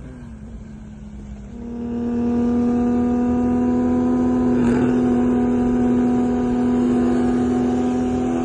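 Nissan 370Z's VQ-series V6 engine running at a steady high pitch. It grows louder about one and a half seconds in and then holds one even note.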